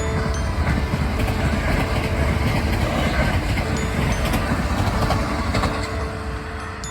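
Kintetsu electric train passing close by, a steady rumble with scattered clacks of the wheels over the rails, fading near the end.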